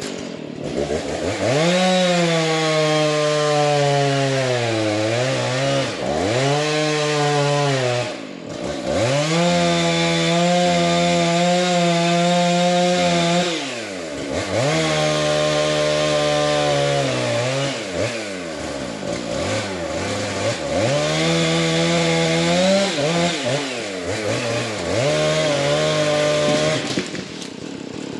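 Two-stroke chainsaw running at high revs while cutting wood. Its pitch sags and recovers several times as the chain loads up in the cut, with the deepest drops around a quarter, a half and two-thirds of the way through.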